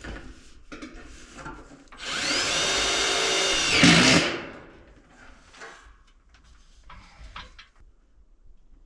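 Power drill driving a screw into metal siding in one run of about two seconds, starting a couple of seconds in. The motor whine rises quickly to a steady pitch and grows louder just before it stops. Light knocks and handling sounds come before and after it.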